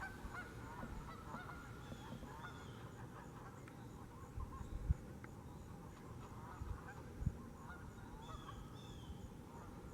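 Geese honking faintly in the distance, a scatter of short calls, with two low thumps about five and seven seconds in.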